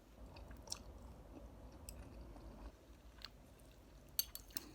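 A person chewing a mouthful of food, with a few short sharp clicks, two of them close together near the end.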